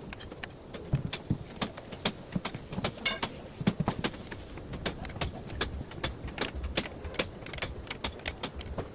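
Irregular light metallic clicks and clinks, a few a second, as metal tools and parts are handled and knocked together.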